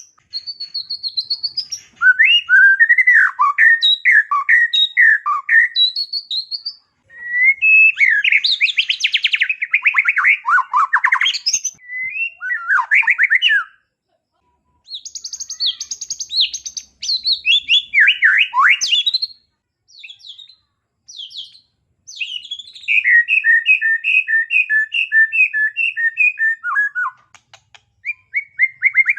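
White-rumped shama (murai batu) singing a loud, varied song of short phrases, trills and whistles that imitate small birds, in bursts with brief pauses. Near the end it repeats one two-note phrase about three times a second.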